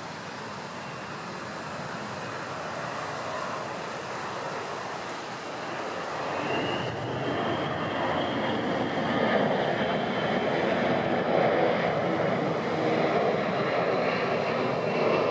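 Four turbofan engines of a USAF C-17 Globemaster III transport jet, getting steadily louder as it approaches. A high engine whine comes in about halfway through.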